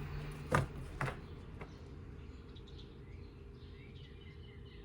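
Two sharp clicks in the first second as tarot cards are pulled and laid down, then faint bird chirps of short rising notes.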